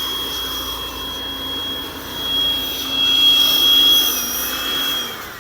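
Electric blower motor running with a steady high whine, then winding down in pitch and fading as it is switched off near the end.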